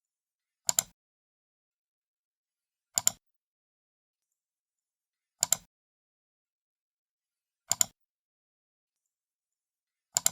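Computer mouse left button clicked five times, about every two and a half seconds. Each click is a quick pair of sharp clicks, the button's press and release.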